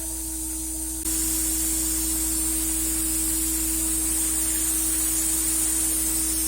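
CNC router spindle running free with a steady whine and a hiss, not yet cutting; about a second in the hiss gets louder and stays up.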